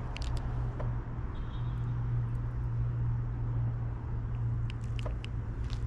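A car engine idling steadily, a constant low hum, with a few light clicks over it.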